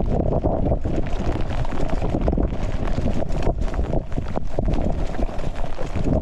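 Wind buffeting an action camera's microphone on a moving mountain bike, a steady rumble broken by many short jolts and knocks from the bike over rough ground.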